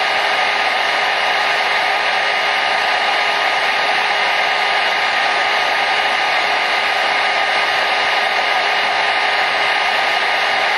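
Hair dryer running steadily: an even, unchanging rush of airflow with a faint motor whine, used as white noise to soothe a baby.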